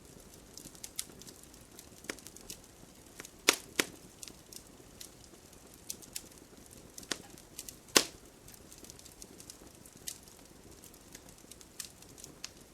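Wood campfire burning with irregular crackles and sharp pops over a faint steady hiss. The loudest pops come about three and a half seconds in and again about eight seconds in.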